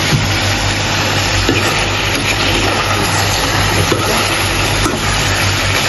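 Chicken curry sizzling and frying in a metal pan on a gas burner, a steady, dense hiss over a constant low hum.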